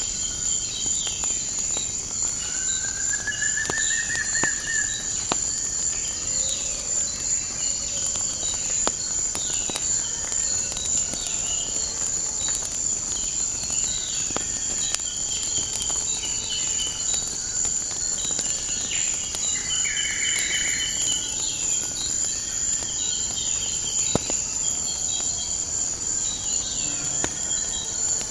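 Nature ambience: a steady, high-pitched chirring of crickets, with scattered bird calls over it, including a rising call a few seconds in. Faint sharp crackles of a wood fire pop throughout.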